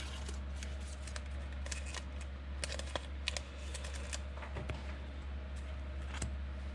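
Trading cards being flipped and slid against one another by hand, a run of soft, irregular clicks and swishes over a steady low hum.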